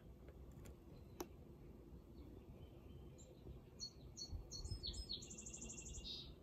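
A small songbird singing: a few short, high chirps, then a quick trill of rapidly repeated notes near the end. A single faint click comes about a second in.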